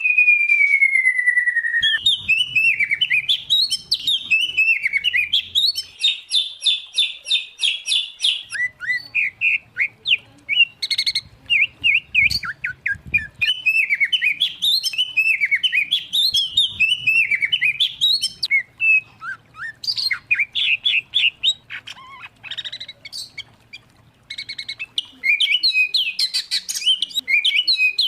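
Songbird singing a long, varied song of whistled phrases, sweeping notes and rapid trills, with a brief lull about three-quarters through.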